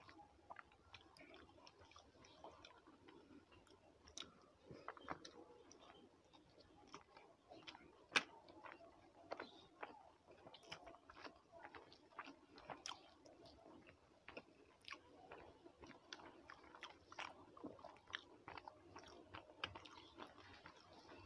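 Faint close-up chewing of a rice meal eaten by hand, with many short wet clicks and smacks scattered irregularly and one sharper click about eight seconds in.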